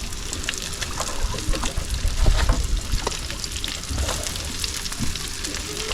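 Panko-crumbed fish pieces frying in a pan on medium heat: a soft, steady sizzle with small crackles and ticks.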